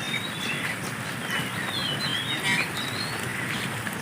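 Wild birds chirping: a series of short whistled notes that swoop down and up, over a steady outdoor hiss.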